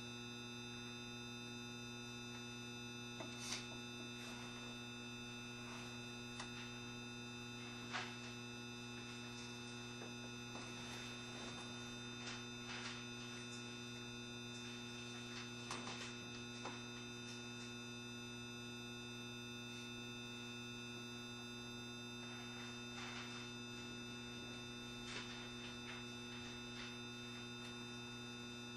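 Steady electrical hum inside a JR Shikoku 7200-series electric railcar, several fixed tones that hold unchanged, as heard with the car standing still. A few faint, scattered clicks sound over it.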